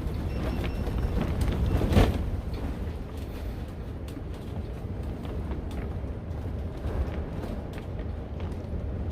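High wind buffeting a plastic-covered cattle-panel greenhouse: a steady low rumble with scattered ticks, and one sharp knock about two seconds in.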